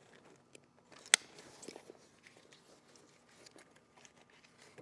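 A nylon handlebar bag and its elastic straps being handled and fitted on motorcycle handlebars: rustling and small clicks, with one sharp click about a second in.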